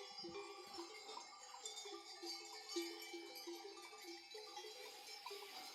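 Bells on a grazing flock of sheep jangling irregularly and fairly softly, many overlapping ringing notes at different pitches as the animals move.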